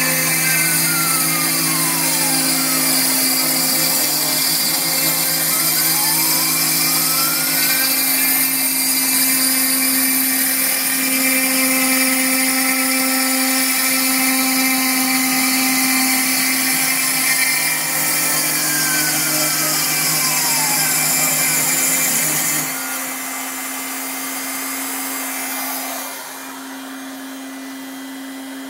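Phlatprinter MK1 CNC machine cutting foam: the cutting spindle runs steadily while the stepper motors whine, their pitch rising and falling in arcs as the machine traces curves of a spiral. About three-quarters of the way through the sound drops in level, and drops again near the end, leaving a steadier hum.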